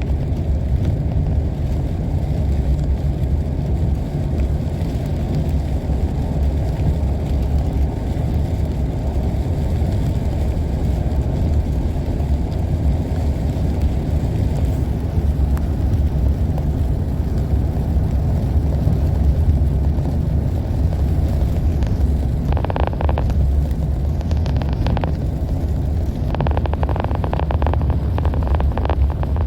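Car cabin road noise while driving on slushy, snow-covered roads: a steady low rumble of tyres and engine. Twice near the end, a rough rushing noise rises over the rumble for a few seconds.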